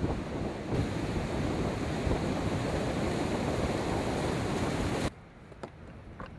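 Heavy wind rushing over the microphone along with surf, a loud, steady roar of noise. About five seconds in it drops abruptly to a much quieter background of wind and surf.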